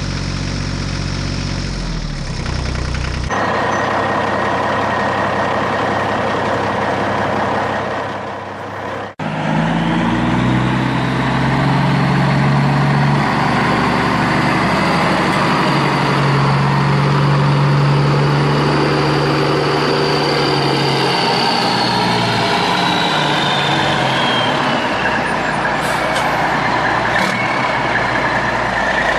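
Diesel engine of heavy construction machinery running under varying load, with a high whine that slides down in pitch near the end and abrupt jumps in the sound where clips are cut together.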